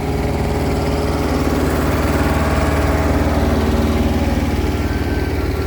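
Heavy equipment engine running steadily with a pulsing low rumble, with a couple of short beeps near the end.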